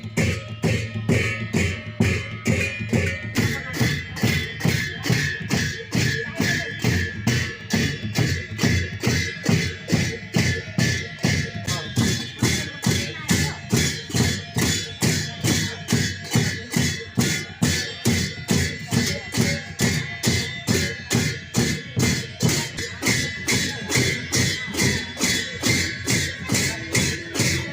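Drum-led music with a steady beat of about two and a half strokes a second, with ringing metallic tones above it.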